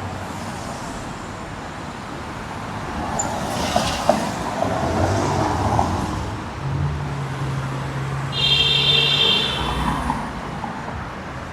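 Downtown city street traffic: vehicles running and passing in a steady wash of road noise, with a few sharp clicks about four seconds in and a brief high-pitched tone about eight and a half seconds in.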